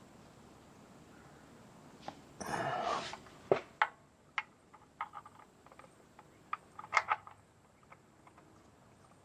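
Hand work under a vehicle during an oil change: a brief rustling scrape about two and a half seconds in, then a run of irregular sharp clicks and knocks for the next few seconds.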